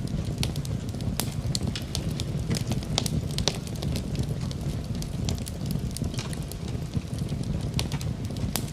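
Wood fire crackling in a fireplace, with frequent irregular pops and snaps over a steady low rumble.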